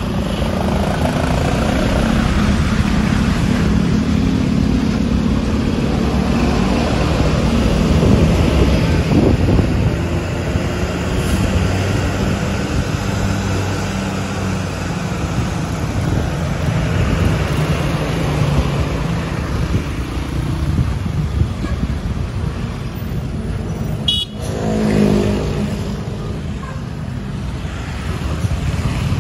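Heavy vehicle engine running amid road traffic noise, with a short horn-like tone about 25 seconds in.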